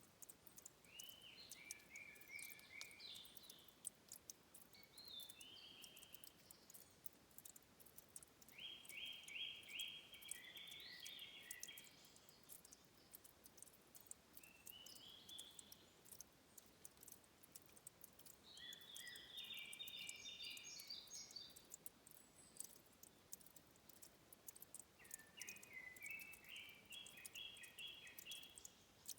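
A songbird sings short phrases of rapid repeated notes, one every few seconds, six phrases in all. Under it are faint, scattered high clicks of trickling water at a stream's source.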